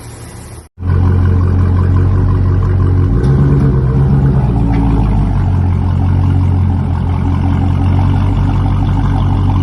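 Dodge Charger Scat Pack's 392 HEMI V8 running loudly through an aftermarket cat-back exhaust, cutting in abruptly about a second in. It is revved briefly about three seconds in, then settles back to a steady, deep idle.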